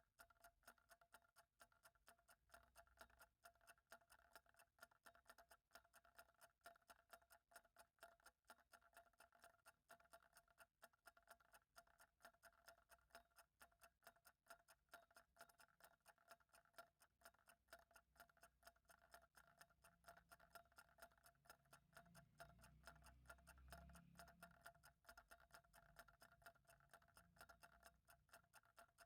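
Faint, steady ticking of a clock, one even tick after another.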